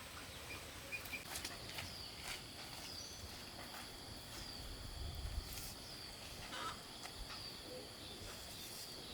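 Rural outdoor ambience: a steady high insect drone, with a short falling chirp that repeats about every half second, and a few faint knocks.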